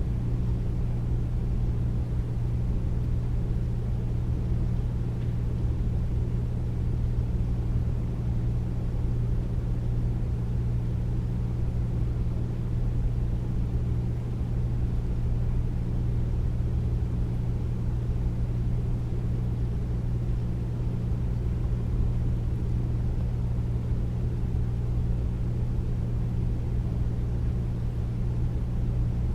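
Air conditioner running steadily: a deep, even hum with a few low tones under a soft rush of air, unchanging throughout.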